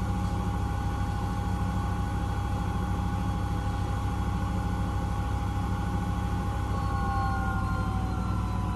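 Miele W1 washing machine spinning: a steady high motor whine over a low hum. The whine starts to fall in pitch near the end as the drum slows.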